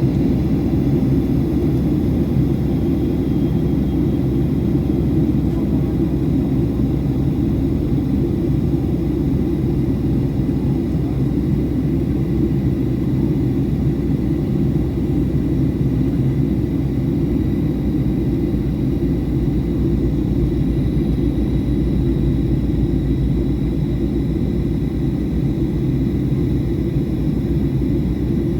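Boeing 737-800 cabin noise in flight during descent: a steady low rumble of the engines and rushing air, with a faint steady high whine above it.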